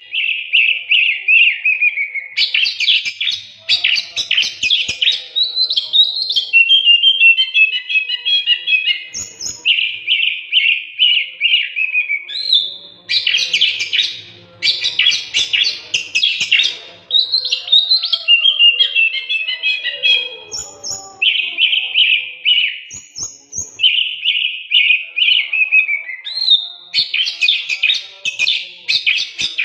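Oriental magpie-robin (kacer) in full song: a long run of varied whistled phrases, fast trills and chattering notes, one after another with only brief pauses.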